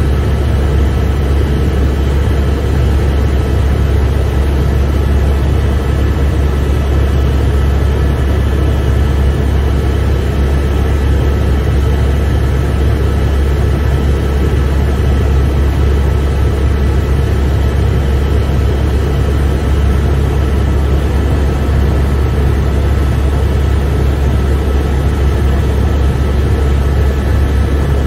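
Helicopter cabin noise in steady flight: a loud, unchanging deep drone from the rotor and engine, with a few faint high steady whines on top.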